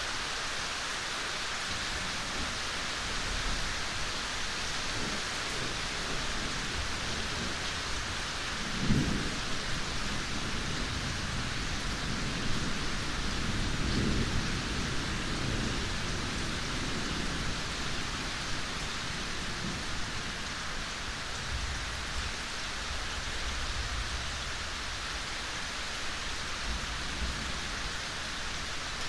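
Steady rain falling in a forest, an even hiss of drops on leaves and ground. Low thuds and rumbles come and go beneath it, the strongest about nine seconds in and again around fourteen seconds.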